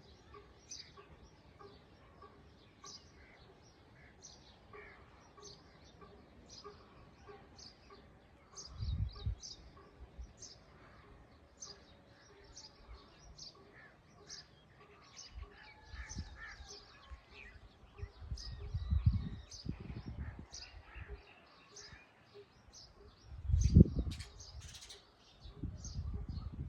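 Small birds chirping, short high calls repeating about twice a second without a break. A few louder low rumbles come through, once about nine seconds in and several more in the second half.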